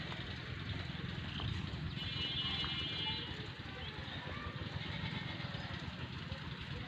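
Outdoor ambience: a steady low rumble and hiss, with a brief high, buzzy call about two seconds in that lasts about a second.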